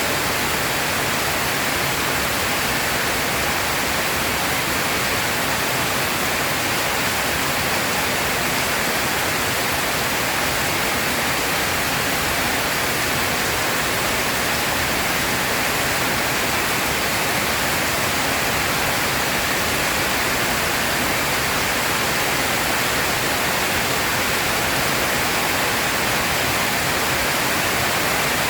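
Steady rain falling, an even unbroken hiss with no thunderclaps.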